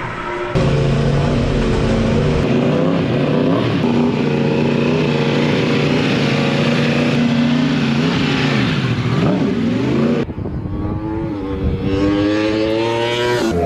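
Motorcycle engine running at high revs, its pitch climbing and falling with throttle and gear changes, and dipping then climbing again about eight to nine seconds in. The sound cuts abruptly about half a second in and again about ten seconds in.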